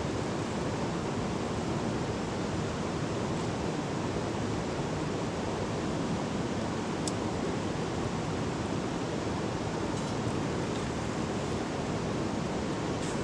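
River water rushing steadily, an even noise with a few faint ticks.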